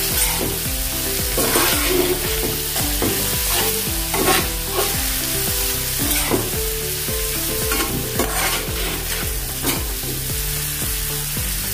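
Spiced vegetables sizzling in hot oil in a pan while a spoon stirs them, with background instrumental music.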